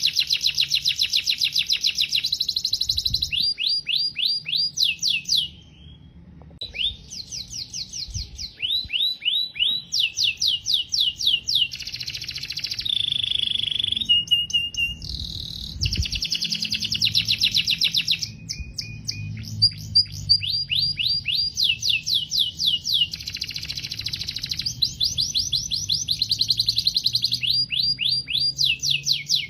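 Domestic canary singing a long song of fast trills, each a rapid run of repeated notes, changing from one trill to the next, with a short break about six seconds in.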